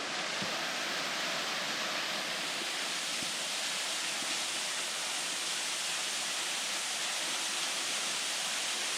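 Small woodland waterfall at a weak flow, falling steadily with an even rushing hiss.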